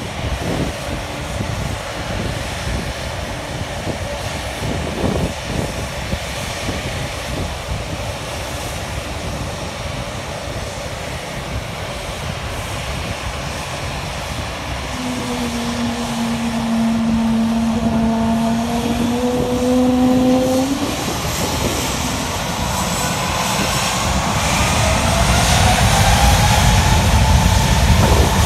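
Spirit Airlines jet airliner's engines running with a steady roar, then whining higher in pitch and growing louder near the end as they spool up for take-off thrust.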